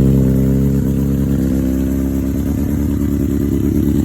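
2013 Honda CBR600RR's inline-four engine idling steadily just after a cold start, easing slightly in level about a second in.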